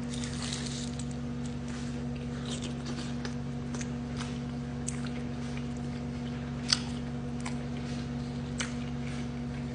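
Someone chewing a bite of chicken quesadilla, with soft wet mouth clicks and smacks scattered through. A steady electrical hum lies underneath.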